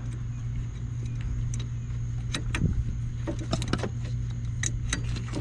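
Scattered metallic clicks and taps as a hydraulic line fitting is worked back onto a lowrider's front hydraulic cylinder, over a steady low hum.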